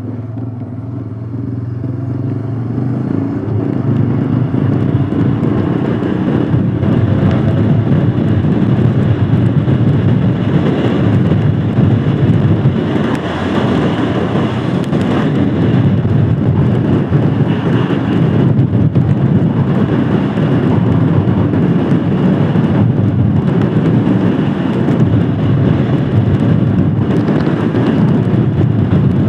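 Royal Enfield Scram 411's single-cylinder engine pulling away, its pitch rising over the first few seconds, then running steadily under way with wind and road noise.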